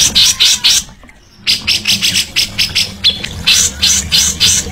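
A songbird repeating rapid, harsh chattering notes, several a second, with a short break about a second in, over a steady low hum.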